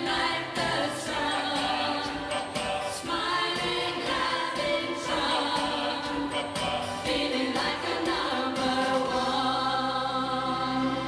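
Choir singing a 1970s pop song over a steady beat. About eight and a half seconds in, the voices and a low bass note settle onto a long held chord.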